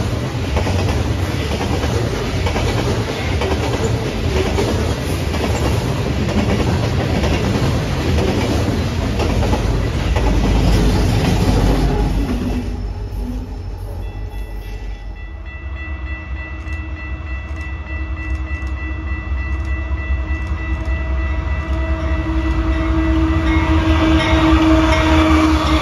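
A train rolls past, the rumble of wheels on rail fading out about halfway through. Then a steady multi-note horn chord sounds and grows louder toward the end.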